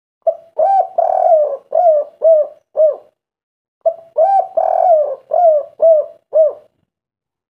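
Spotted dove (tekukur) cooing its song twice. Each phrase opens with a short coo and a longer rolling coo, then ends in three short separate coos, the 'kuk 3' song type.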